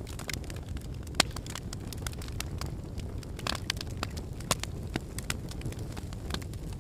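Wood fire in a fireplace burning steadily, with a low rumble of flame and irregular crackles and pops from the burning logs; one sharp pop about a second in is the loudest.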